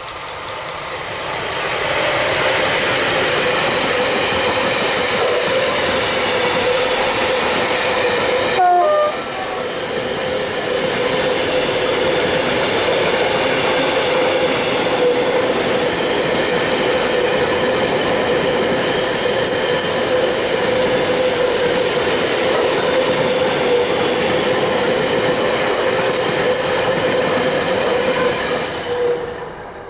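An electric freight train hauled by a Siemens Vectron locomotive passes at speed, its long line of container wagons giving a steady rumble and clatter of wheels on rail with a constant tone running through it. The sound builds over the first two seconds, has a brief louder moment just before nine seconds in, and fades quickly near the end as the last wagon goes by.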